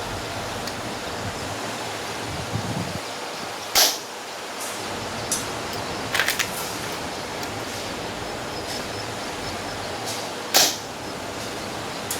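VSR-10-type spring-powered airsoft sniper rifle firing: two sharp shots, about four seconds in and near the end, with a quick cluster of lighter clicks about six seconds in, over steady wind noise.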